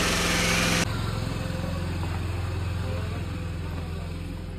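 An engine running steadily, with a loud hiss over it that cuts off about a second in; the engine then slowly fades.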